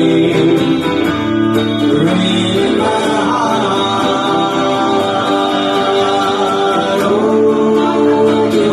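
Live music: a slow country-style ballad's instrumental passage, with guitar and long held melody notes.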